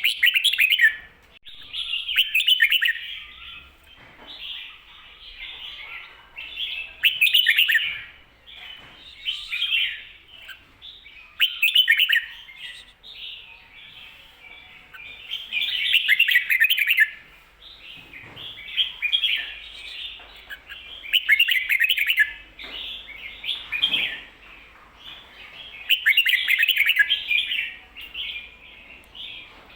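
Red-whiskered bulbul singing its bright warbled phrases, one every two to three seconds with softer notes between them. This is the 'kho-ta-ra' song delivered doubled, the way Thai bulbul keepers use it to tutor young birds.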